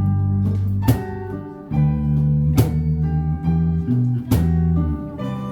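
Live band playing an instrumental passage: strummed guitar chords over bass notes, with a sharp beat about every second and a half.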